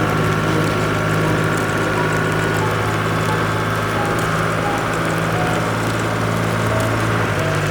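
A vehicle engine running steadily at an even hum, which shifts slightly about seven seconds in.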